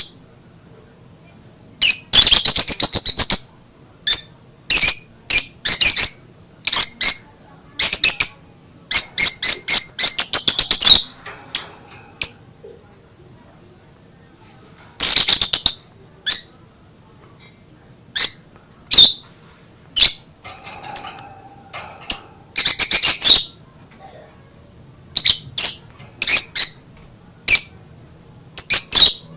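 Lovebird calling: loud, shrill, high-pitched chirps and screeches in irregular bouts, some single and some in quick runs of several, with gaps of a second or more between.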